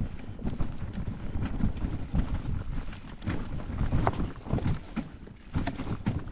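Mountain bike rolling over a rocky trail: a low rumble with uneven knocks and rattles from the tyres and frame striking stones, and wind buffeting the microphone.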